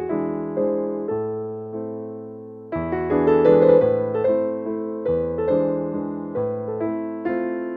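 Background music: soft electric piano playing slow chords and melody notes, with a held chord fading away before the playing resumes near the middle.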